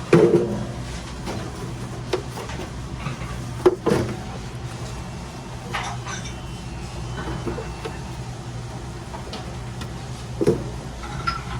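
Radish-slicing food machine running with a steady low hum, with a few knocks and clatters, the loudest right at the start and others about four and ten seconds in.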